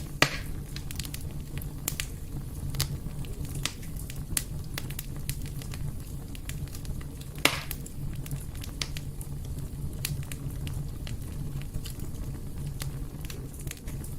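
Fire burning in a fireplace: a steady low rumble with irregular crackles throughout and two louder pops, one just after the start and one about halfway through.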